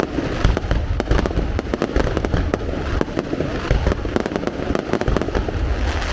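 Fireworks display: a dense, continuous barrage of shell bursts, booms and crackling with no pause.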